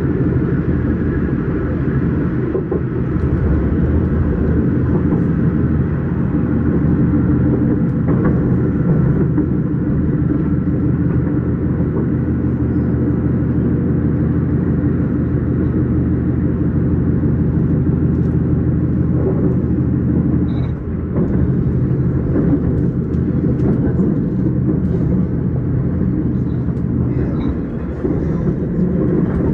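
S-Bahn train in motion: a steady, loud low rumble with a few steady hum tones running through it.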